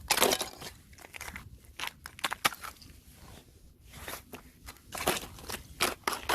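Thin fresh ice crunching and cracking in sharp, irregular snaps, the loudest just after the start.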